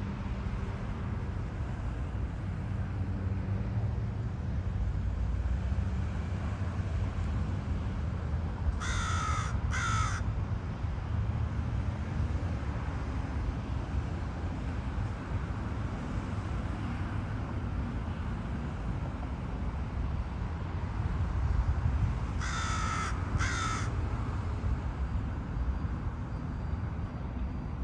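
A crow cawing in two brief bouts, two caws each, about nine seconds in and again about twenty-two seconds in, over a steady low rumble.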